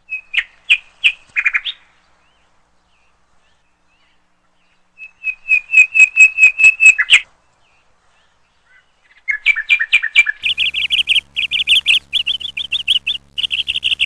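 A small songbird singing fast, repeated high chirps in three phrases with silences between: a short one at the start, a second about five seconds in, and a longer, busier one from about nine seconds in.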